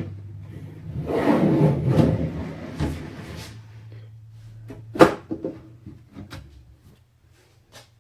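Hands handling computer parts during a PC build: a rustling, scraping stretch for a couple of seconds, then a sharp knock about five seconds in, followed by a few small clicks. A faint steady low hum sits underneath.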